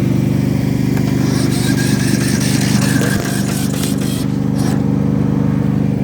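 Yard Machines mower engine cranking steadily on its electric starter without firing, a sign that it is out of fuel or the battery is weak.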